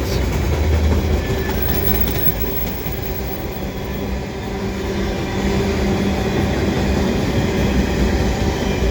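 Freight cars of a fast mixed freight train rolling past at speed: a steady rumble of steel wheels on the rails, with a faint low hum running through it.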